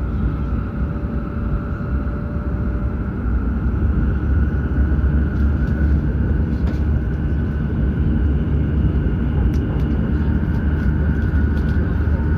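Running noise of a Hokuriku Shinkansen train at speed: a steady low rumble with a faint whine that grows slightly louder about four seconds in.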